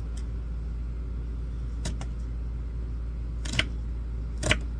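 Knife chopping an onion on a cutting board: three sharp knocks, the first faint and the last two about a second apart, over a steady low hum.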